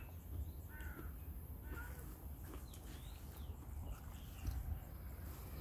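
Birds calling: short arched calls repeating about once a second over the first two seconds, then fainter, higher chirps, over a steady low rumble.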